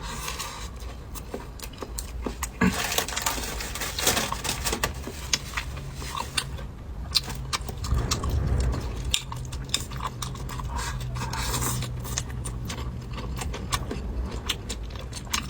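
Close-miked eating: chewing and mouth sounds, with many small sharp clicks of utensils against dishes.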